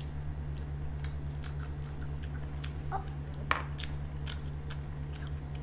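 Close-miked mouth sounds of people chewing and biting into a burger bun: small scattered wet clicks and smacks, with one sharper click about three and a half seconds in, over a steady low hum.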